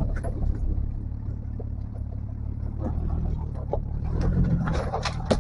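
Off-road 4x4's engine running steadily at low speed, with a few short knocks and crackles, more of them near the end.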